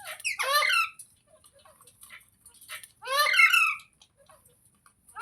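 Pet parrot giving two harsh, squawking calls, each under a second and about two and a half seconds apart, with faint short chirps between them.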